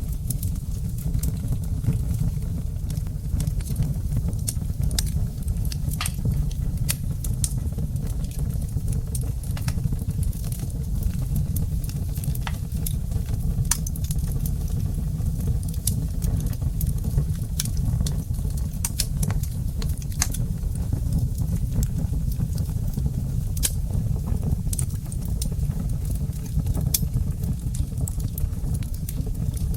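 Wood fire burning in a fireplace: a steady low rumble of the flames with many sharp, irregular crackles and pops of the burning wood.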